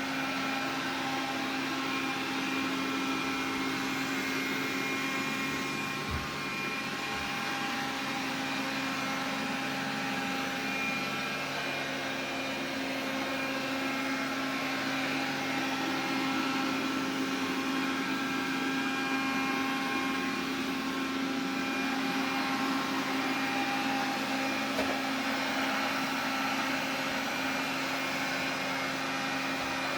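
Xiaomi vacuum cleaner running steadily: a rushing airflow noise with a motor hum made of several steady tones.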